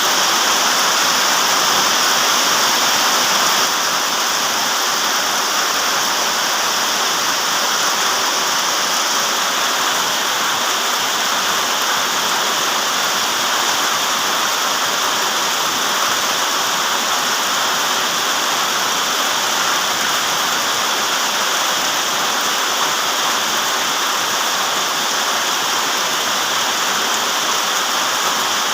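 Steady rain, an even, dense hiss of falling water with no single drops standing out.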